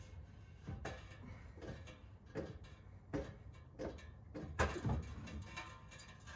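Irregular light knocks, clicks and scrapes of an aftermarket Borla cat-back exhaust being handled and worked down from under the car, with a few louder clunks in the second half.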